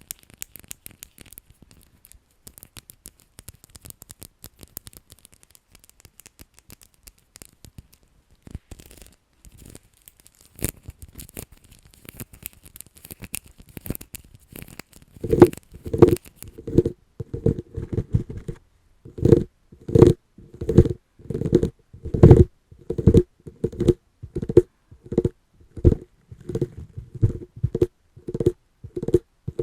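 Light scratching and crinkling, then, from about halfway, steady fingertip tapping on an object at about two taps a second, each tap with a short ringing tone.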